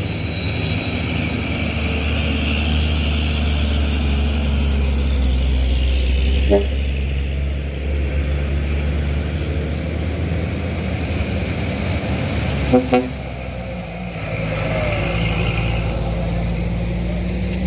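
Heavy truck engines running steadily under load as a convoy climbs a steep hill, with two short horn toots, one about a third of the way in and one about two thirds in.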